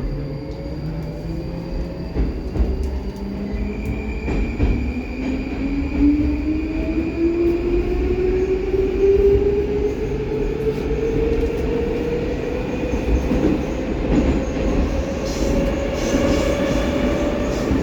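Baltiets metro train running through a tunnel: wheels rumble on the rails and the traction motors give a whine that rises steadily in pitch as the train gathers speed.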